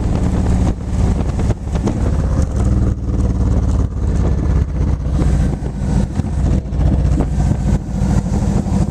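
Motorcycle engine running steadily under way, heard from the passenger seat, with wind buffeting the microphone.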